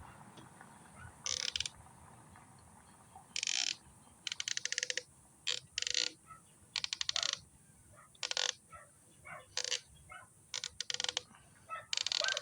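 Ratchet wrench worked in short strokes: quick runs of clicking, each about half a second, repeated a dozen or so times with short pauses between.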